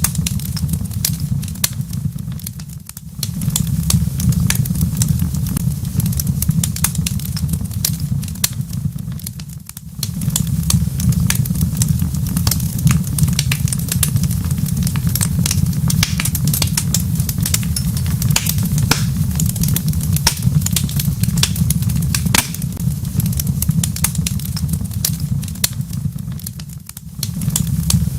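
Wood fire in a fireplace crackling, with many irregular sharp pops and snaps over a steady low rumble. The rumble dips away briefly three times, about three, ten and twenty-seven seconds in.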